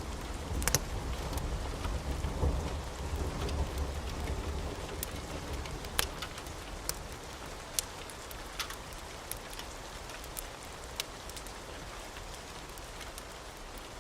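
Wood fire crackling in a fireplace: a steady hiss with scattered sharp pops. A low rumble fades away about five seconds in.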